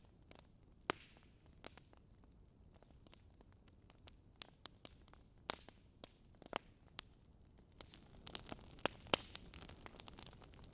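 Wood fire in a fireplace crackling, with scattered sharp pops a second or so apart that grow denser and quicker about eight seconds in.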